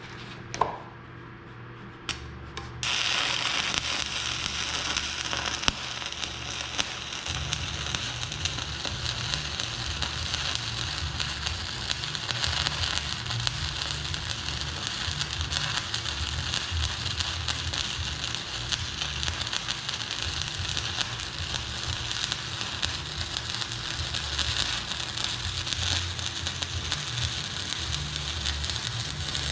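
Stick welding arc on a 1/8-inch 7018 electrode, struck about three seconds in and then crackling steadily. A low hum runs underneath and grows louder about seven seconds in.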